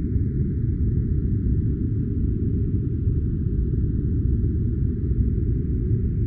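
Steady, unchanging low rushing noise with a faint thin hiss above it and no changes or events: a deep, filtered white-noise track for sleep or study.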